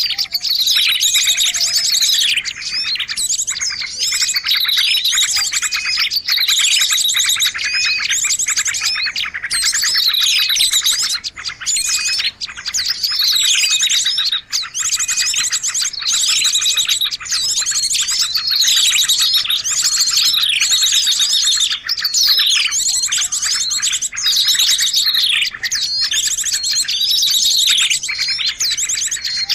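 A dense chorus of small songbirds chirping and calling over one another: falling whistled notes repeating every second or two over fast, high trills. It is a combined lure recording used to draw small birds in for trapping.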